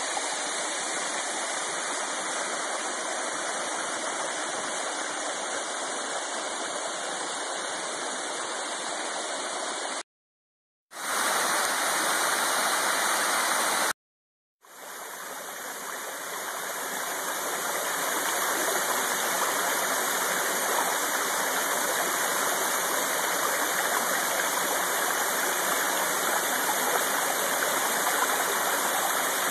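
Waterfalls rushing: a steady, even roar of falling water. It cuts out abruptly twice, about ten and fourteen seconds in, and comes back each time as a new waterfall, the last one fading in over a few seconds.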